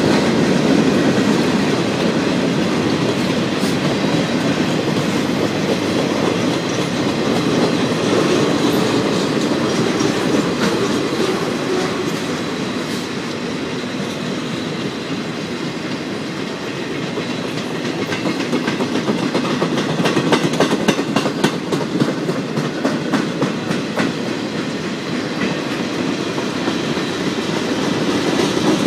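Freight cars of a mixed train rolling past: a steady rumble of steel wheels on rail with a clickety-clack over the rail joints. It eases a little about halfway through, and the clicking is clearest in the last third.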